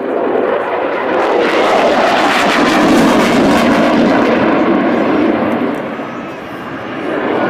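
Jet noise from a Eurofighter Typhoon FGR4's twin EJ200 turbofans during a display pass. It swells to a loud peak with a rough crackle about two to four seconds in, eases off, then rises again near the end.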